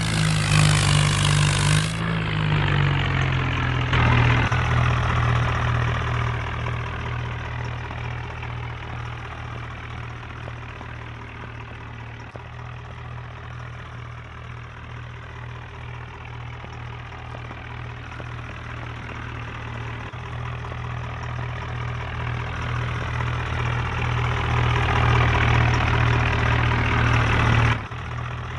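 Tractor engine running steadily with a deep, even hum. It fades toward the middle and grows louder again near the end, then drops off abruptly just before the end.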